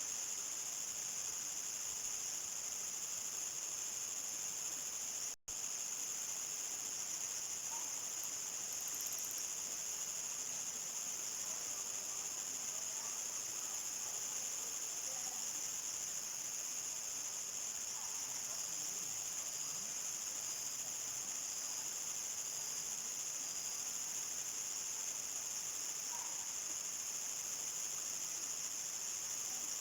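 A dense chorus of crickets chirring steadily and evenly, with the sound cutting out for a split second about five seconds in.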